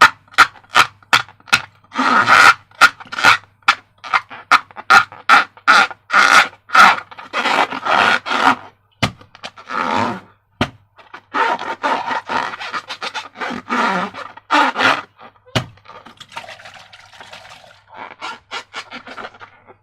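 Transparent rubber balloons being handled and rubbed, giving a run of short rubbery squeaks and scrapes, two or three a second. The strokes grow quieter and sparser after about sixteen seconds.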